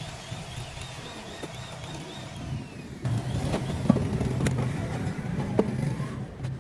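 A motor vehicle's engine running, getting louder about three seconds in, with a few sharp clicks over it.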